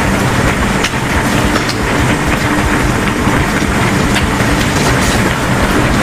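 Steady, loud vehicle rumble with a low hum and scattered sharp clicks.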